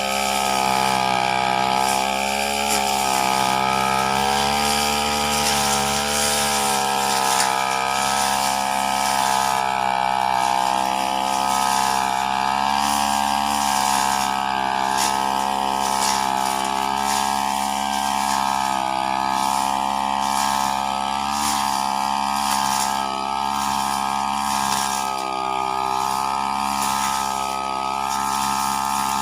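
Small two-stroke engine of a brush cutter running steadily under load, its pitch wavering slightly up and down as it is worked.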